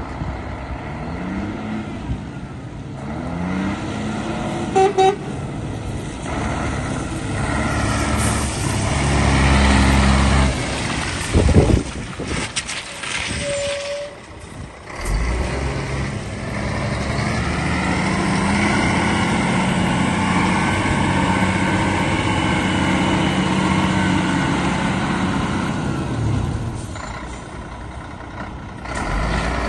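Scania 114 380 truck's diesel engine running, its revs rising and falling, with two short beeps and a sharp loud noise about midway.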